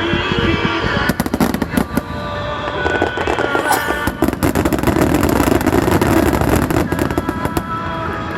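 Fireworks going off in a rapid, dense string of sharp cracks and bangs, with music playing underneath.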